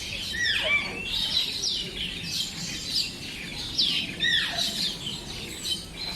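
A chorus of birds chirping and calling at once, with a louder call sliding steeply down in pitch about half a second in and again about four seconds in.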